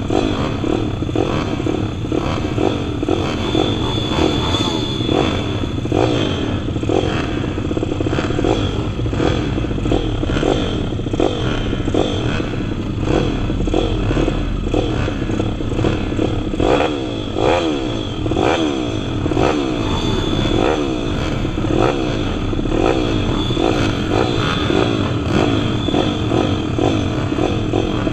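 Several pit bikes' small single-cylinder four-stroke engines racing, overlapping as each rider revs up and backs off, so the pitch keeps rising and falling.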